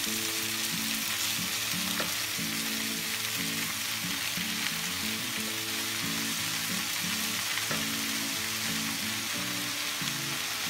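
Chopped spinach with onions and peppers sizzling in hot oil in a frying pan, stirred with a wooden spatula as the spinach wilts; a steady hiss, with soft background music underneath.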